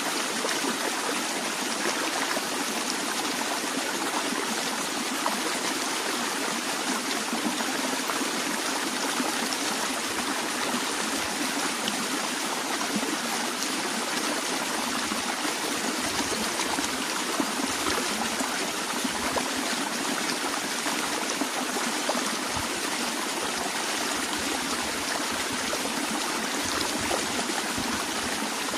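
A stream of water flowing and trickling steadily, with a constant rushing and babbling.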